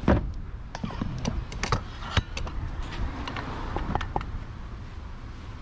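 A string of knocks and clatters from hard objects being handled, most of them in the first four seconds and quieter near the end, over a low background rumble.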